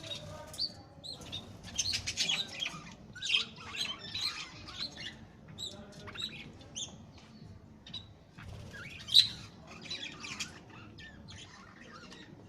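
Parrots chirping and squawking in a stream of short, high, scattered calls, with one sharper, louder call about nine seconds in.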